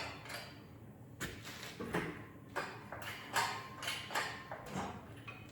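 Irregular metallic knocks and clanks, about a dozen, as the LS engine is shifted against its mounts and surrounding metal while being fitted into the car; one knock near the middle leaves a brief ringing ping.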